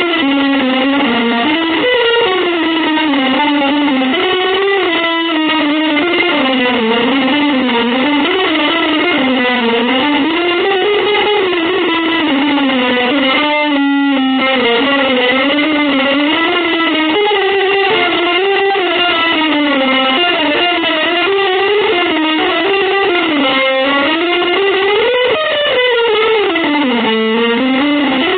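Electric guitar with effects playing a continuous, winding legato melody. Its sustained notes slide up and down in pitch, with a brief break about 14 seconds in.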